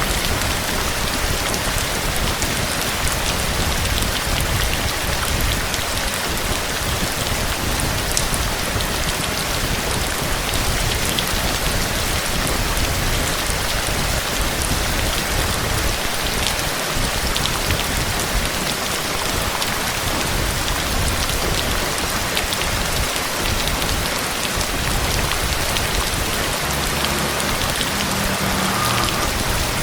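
Steady heavy rain falling on a surface, a dense even hiss with many small drop ticks.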